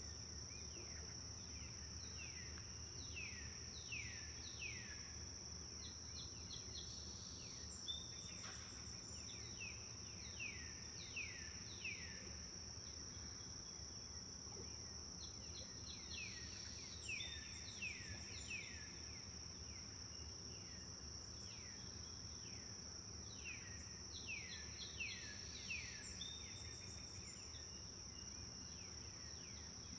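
Forest ambience: a bird sings phrases of quick downward-sliding notes, one phrase every few seconds, over a steady high-pitched insect drone.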